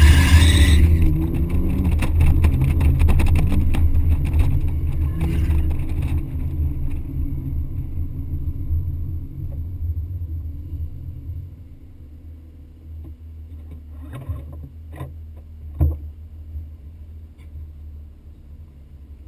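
BMW 130i's straight-six engine and wind noise on an outside-mounted camera as the car slows and the engine settles to a steady idle. A few knocks and a sharp thump come near the end as the driver's door is opened.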